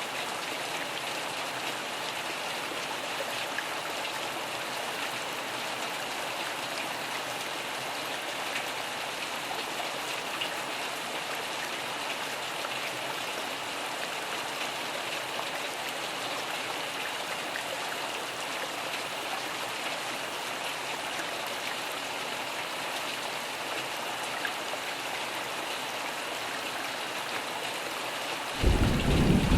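Steady rain falling, an even hiss of drops. About a second before the end, a loud low rumble of thunder breaks in suddenly.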